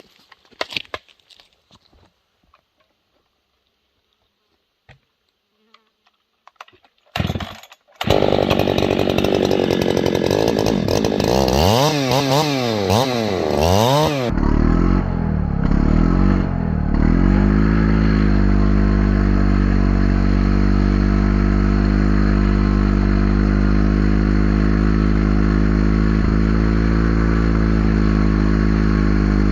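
A few seconds of quiet handling noises. Then a Husqvarna 390 chainsaw starts, is blipped up and down in quick revs, and settles into a steady high-speed run as it is held in a long bucking cut, sawing up from underneath through a mud-caked log.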